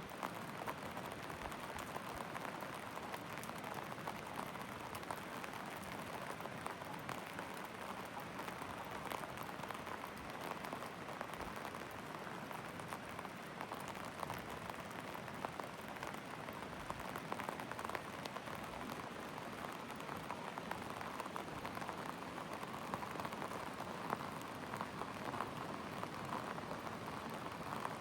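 Steady rain falling, a continuous hiss scattered with many small drop ticks.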